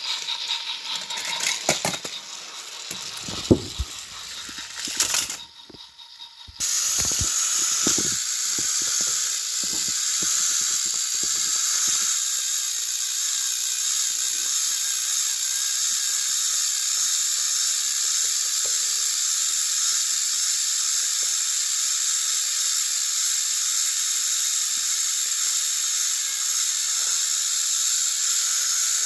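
Small mechanical clicking and rattling, typical of battery-powered toy train engines on plastic track. About six and a half seconds in it gives way abruptly to a steady loud hiss with a few faint clicks.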